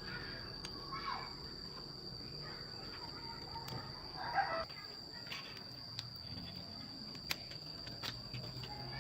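Chickens clucking and calling a few times, the loudest a falling call about four seconds in, over a steady high-pitched insect whine.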